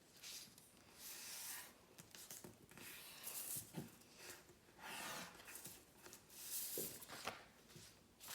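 A sheet of paper being handled and folded in half, with a series of faint rustles and scrapes as it is creased.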